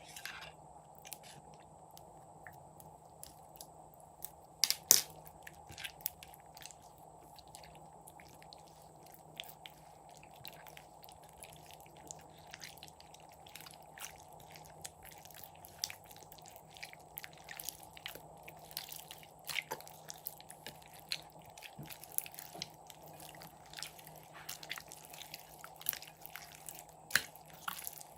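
Slime being worked by hand: dense small sticky clicks and crackles, with a couple of louder pops, about five seconds in and near the end.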